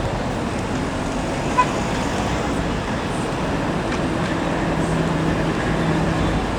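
Steady road and street traffic noise, with a short sharp ping about a second and a half in and a steady low hum from a passing vehicle near the end.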